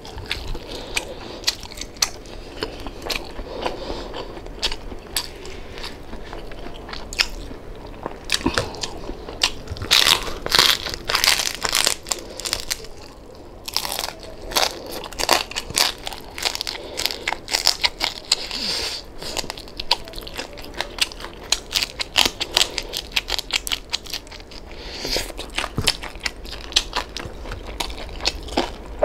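Close-miked chewing and crunching of crispy deep-fried pork knuckle skin (crispy pata), with runs of crackly crunches coming and going between quieter chewing.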